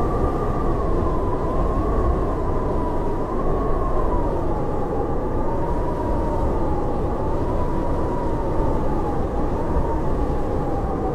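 Howling blizzard wind: a steady rush with a whistling howl that wavers slowly up and down in pitch.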